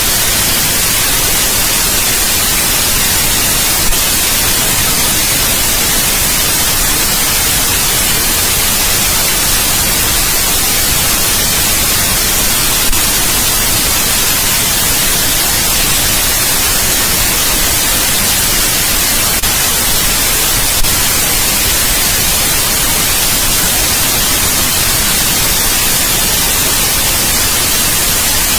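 Steady, loud white noise: an even, unchanging hiss across the whole range, played as a baby sleep sound.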